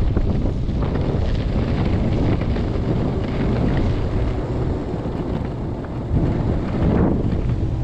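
Strong wind buffeting the microphone, a loud, steady low rumble with gusty swells.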